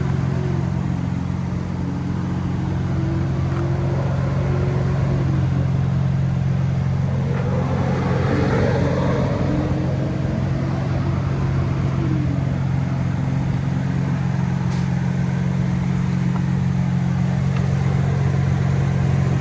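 A steady low mechanical hum, with fainter tones slowly wavering up and down above it.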